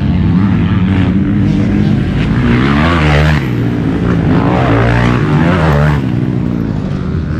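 Dirt bike engine running hard and revving, its pitch rising and falling repeatedly as the throttle opens and closes.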